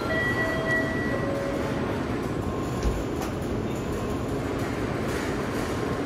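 Tokaido Shinkansen N700-series train running along the station platform: a steady noise of wheels and rushing air.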